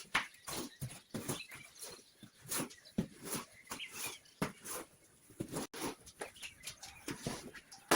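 Birds calling in many short, irregular notes, a few each second.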